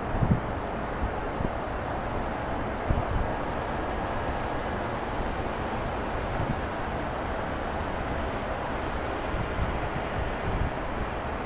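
Steady outdoor rumble, with occasional short low thumps of wind buffeting the microphone.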